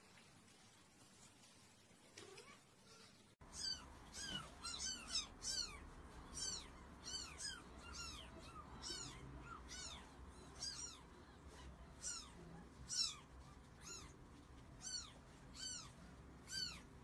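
Kittens mewing: a quick string of short, high-pitched mews, about two a second, starting suddenly about three seconds in.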